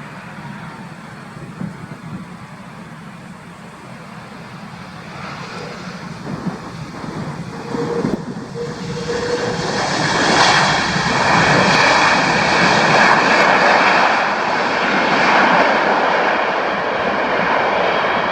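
Air Transat Airbus A330-243 jet airliner landing, the noise of its Rolls-Royce Trent 700 engines growing louder about halfway through and staying loud, with a steady high whine.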